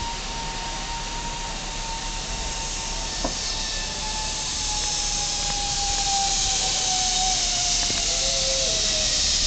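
Zip line trolley pulleys running along the steel cable: a steady whine that slowly falls in pitch, over a hiss that grows louder through the second half.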